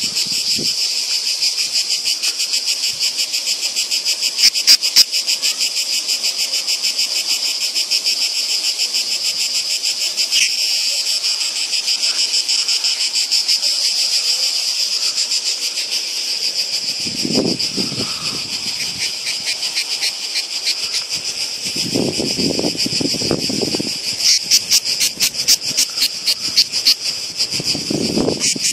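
Two European cicadas singing together in a loud, continuous, fast-pulsing buzz. A few brief low rumbles come in during the second half.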